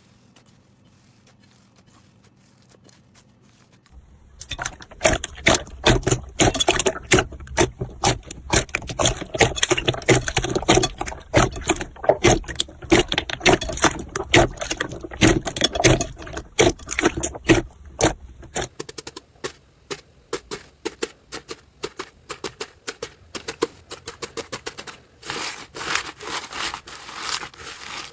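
Slime being squeezed and pressed by hand, making rapid sticky clicks and pops. After a faint start it begins about four seconds in, then grows lighter and sparser past the middle.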